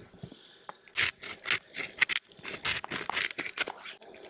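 A quick run of scrapes and clicks, a dozen or so in about two and a half seconds, like objects being handled during food preparation.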